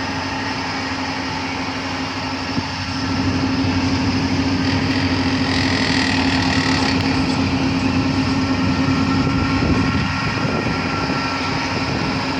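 Excavator with a hydraulic compactor attachment running: a steady mechanical drone with a constant hum, growing louder about three seconds in and then holding steady.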